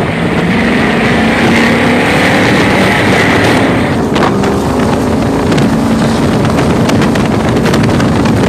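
A powerboat's engine running steadily under way through rough water, with wind noise on the microphone. About four seconds in a steady hiss gives way to sharp, irregular noisy hits.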